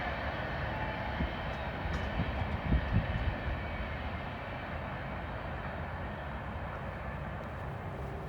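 Freight train rolling away on welded rail: a steady rumble of wheels and cars, with a few light knocks in the first few seconds.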